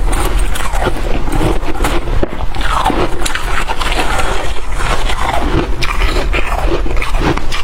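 Loud, steady chewing and crunching of soft frosty ice, a dense run of crisp crackles with no pauses.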